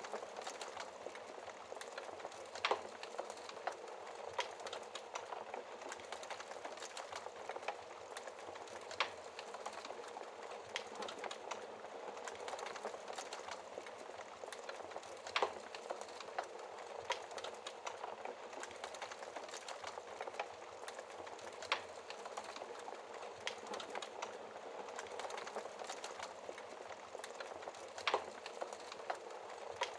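Wood fire burning in a fireplace: a steady hiss with continual crackling and sharp pops, the loudest about every six seconds.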